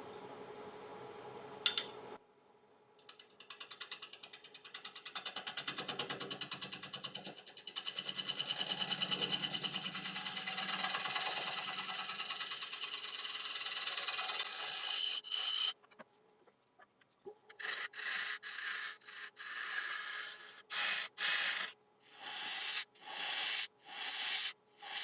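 A turning tool cutting a recess into an Iroko platter blank spinning on a wood lathe, a rasping cut that pulses rapidly with the turning wood. After a short pause about two-thirds of the way in, it comes as a run of short cuts of about a second each.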